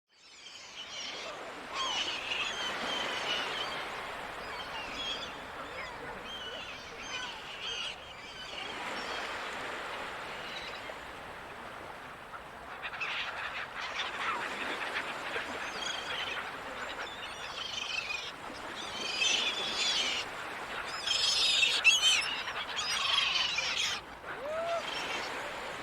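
Gulls calling over a steady wash of ocean surf, fading in from silence at the start. The calls are short and repeated, and grow busier and louder in the last third.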